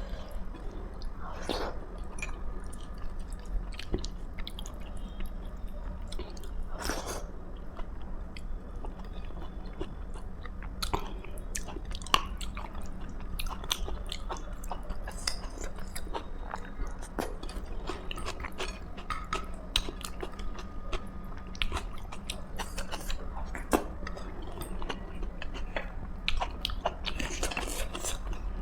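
Close-up eating sounds: a person chewing and biting food, with many short sharp clicks and occasional crunches, over a steady low hum.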